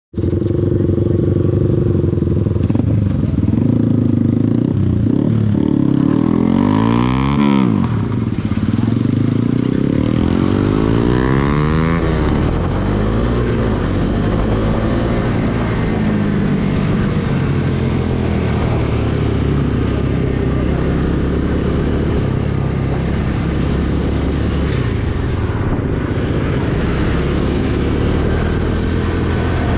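Bajaj Dominar 250's single-cylinder engine running under way, its pitch sweeping up and down sharply twice in the first dozen seconds as it revs, over a steady rush of road noise.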